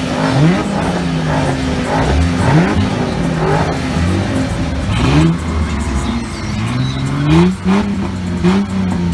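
Car engine revving hard again and again as it pulls away, its pitch climbing over and over, with another engine running steadily underneath.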